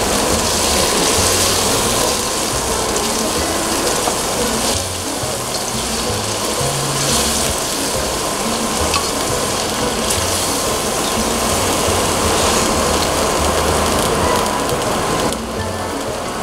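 Squid frying in a wok, sizzling steadily and swelling now and then as it is stirred with a spatula.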